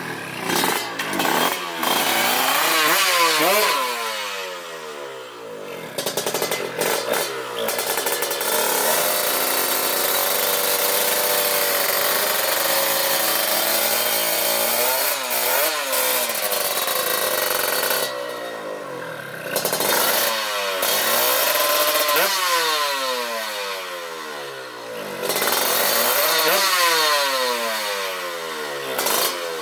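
Tuned two-stroke Kawasaki KR150 motorcycle engine revving hard again and again, its pitch sweeping up and dropping back every few seconds, and held high for several seconds in the middle.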